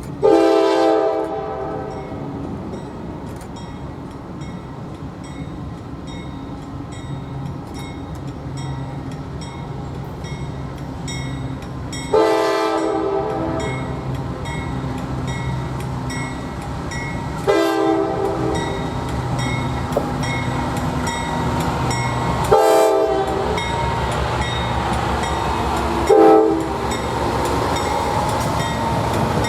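Diesel locomotive air horn sounding five blasts, the first two long and the later three short, over the rumble of a train that grows louder as it approaches.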